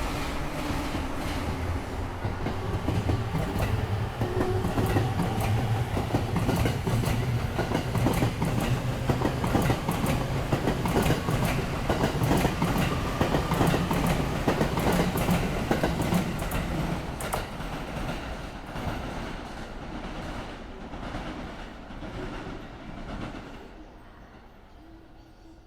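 A Sobu line commuter train's wheels clattering over rail joints as it passes: a rapid run of loud clacks over a rumble, peaking mid-way and then fading away over the last several seconds.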